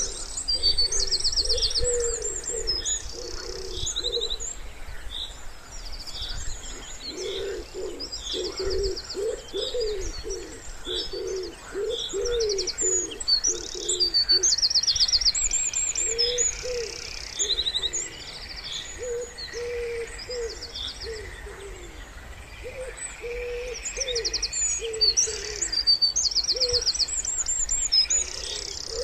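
Wood pigeon cooing in repeated low phrases, with small songbirds singing high, rapid trills and chirps over it throughout.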